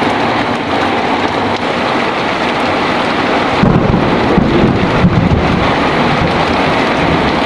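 Heavy rain falling steadily, with a low rumble of thunder rolling in about three and a half seconds in and lasting a couple of seconds.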